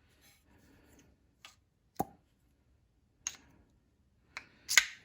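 Small metal parts of a disassembled pneumatic flange tool clicking and knocking as they are handled, about five sharp, separate clicks, the loudest near the end.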